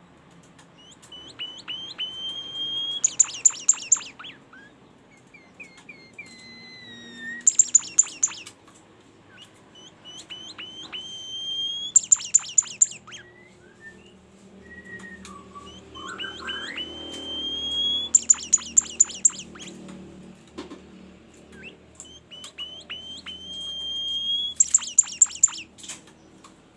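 A songbird known locally as 'bimoli' singing its 'tembakan' song five times. Each phrase is a run of short rising chirps that builds into a rapid, loud burst of sharp high notes.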